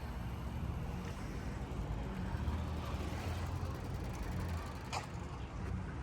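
Road traffic: motor-vehicle engines running with a steady low rumble, and a single sharp click about five seconds in.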